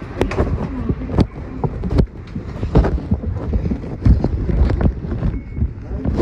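Inside a route bus on the move: a steady low engine and road rumble, broken by frequent irregular knocks and rattles from the body and fittings.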